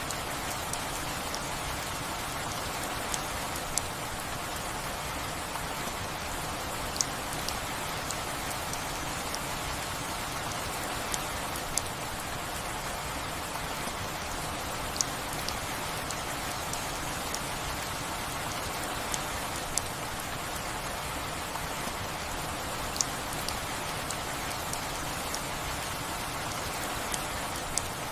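Steady rain falling as an even hiss, with single sharp drops ticking onto a nearby surface every couple of seconds.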